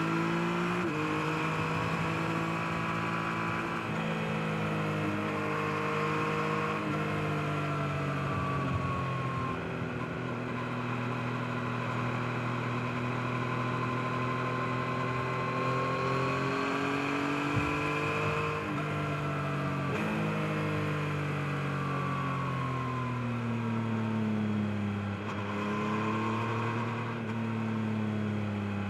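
2023 Yamaha MT-09's 890 cc inline three-cylinder engine running under way, its pitch rising and falling with the throttle: it climbs at the start, holds fairly steady, dips and climbs again around the middle, drops about 25 seconds in and rises again near the end.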